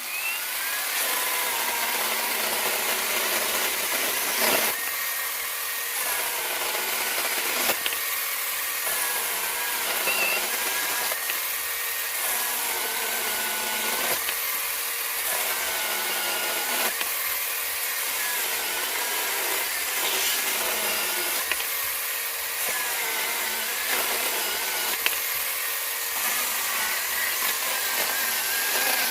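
Jupiter 4-inch cordless mini chainsaw cutting green wood into short pieces, one cut after another. The battery motor runs without stopping, its pitch dipping as the chain bites and recovering between cuts, about one cut every three seconds.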